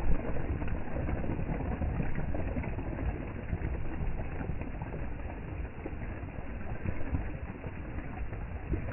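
Steady heavy rain with a low rumble underneath.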